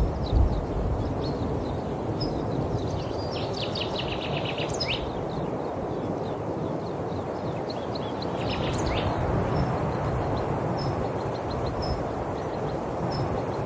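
Songbirds singing over a steady low rumble: two bursts of rapid trilling song, a few seconds in and again about eight seconds in, with short high chirps repeating about once a second near the end.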